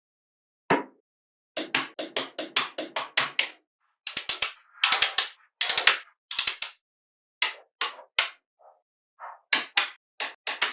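Small magnetic balls clicking and snapping together in quick runs of sharp clicks, with short pauses between the runs.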